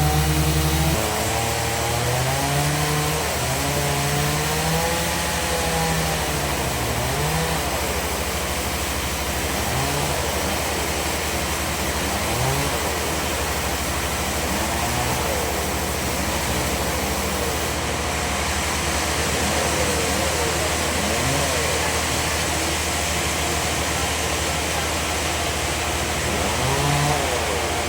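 Sawmill machinery running: a motor hums steadily under tones whose pitch keeps rising and falling, typical of a bandsaw engine loading and unloading as it works a log.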